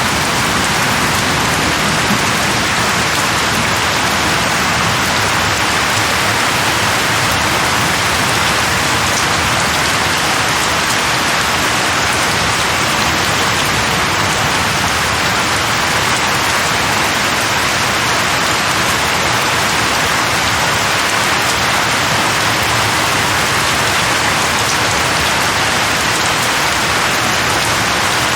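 Steady, even rain falling on leaves.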